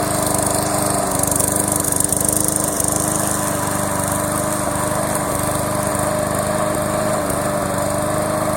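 Small gasoline push-mower engine running steadily on a remote-control lawn mower as it is driven across a slope.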